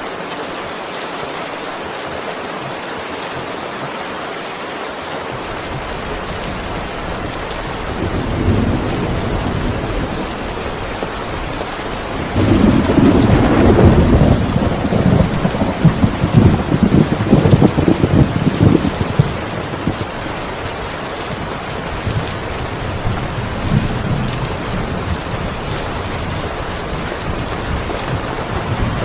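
Heavy rain falling steadily, with a long rolling peal of thunder that builds about a quarter of the way in, is loudest and crackling through the middle, then dies away to a low rumble.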